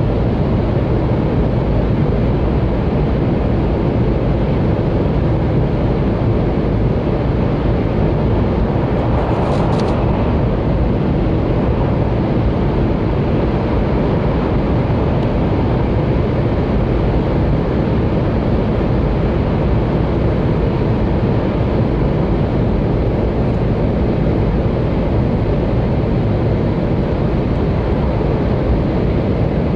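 Inside the cabin of a 700-series Hikari Rail Star shinkansen running at speed through a tunnel: a steady, loud rumble and rush of wheels and air. A brief hiss cuts through about ten seconds in.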